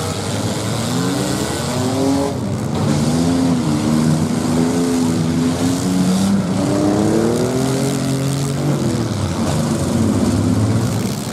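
Several demolition derby cars' engines revving together, their pitch rising and falling as the cars back up and ram each other.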